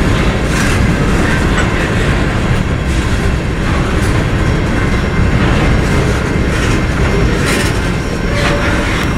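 Freight train rolling past close by, a steady heavy rumble of wheels on rail with sharp clacks as the wheels cross rail joints.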